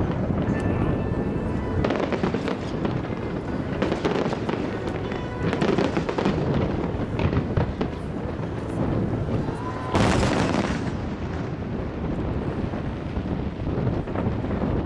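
Aerial fireworks bursting in quick succession, booms with crackling between them. The loudest burst comes about two-thirds of the way in.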